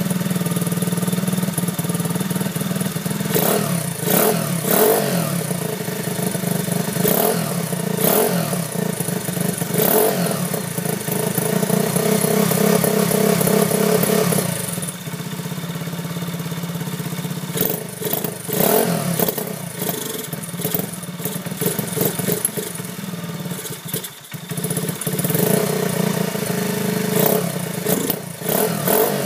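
Honda Monkey's 125 cc single-cylinder four-stroke engine running through a home-built exhaust with a modified original silencer: idling, with repeated short throttle blips.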